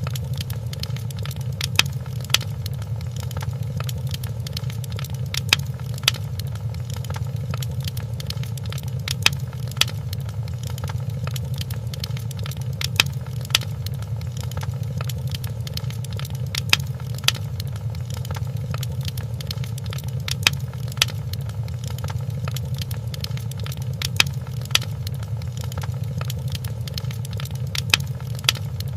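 Wood fire crackling in a fireplace: a steady low rumble with sharp pops that come in pairs about every four seconds, repeating evenly.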